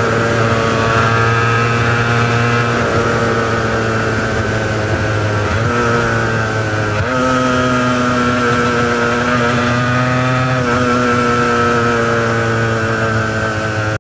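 Honda NS400R two-stroke V3 engine running at fairly steady revs through its original mufflers, with a brief dip in revs and a pickup again about six to seven seconds in.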